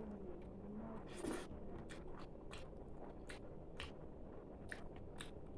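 A person chewing fried food, with irregular crisp crunches and mouth clicks a few times a second.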